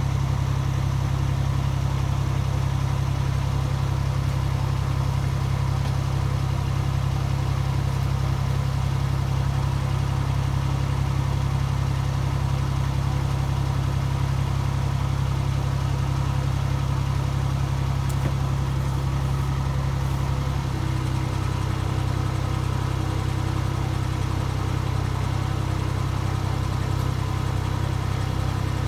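Miniature railway locomotive's engine idling steadily, a constant low hum whose note shifts slightly about two-thirds of the way through.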